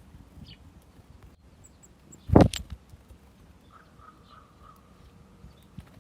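A single loud, sharp knock about two and a half seconds in, followed by a couple of smaller taps, with a few faint, high bird chirps shortly before it.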